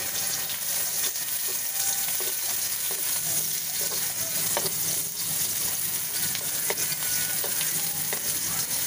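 Sliced red onions and ginger sizzling steadily in hot cooking oil in a wok, stirred with a wooden spatula that clicks and scrapes against the pan now and then.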